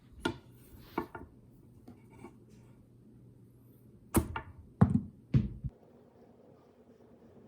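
Kitchen knife chopping on a cutting board: a few separate cuts, then a quicker cluster of louder chops about four to five and a half seconds in.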